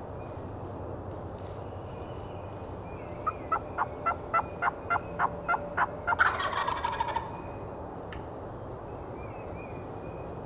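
A run of about a dozen evenly spaced turkey yelps, then a wild turkey gobbler gobbling, a rapid rolling burst lasting about a second, about six seconds in.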